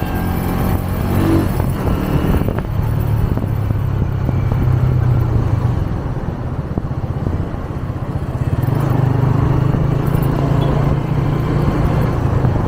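125cc motorcycle engine running under way with road and wind rush, pulling harder about three seconds in, easing off around the middle, then picking up again.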